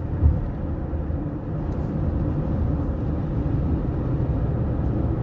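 A steady low rumble, with a brief bump just after the start.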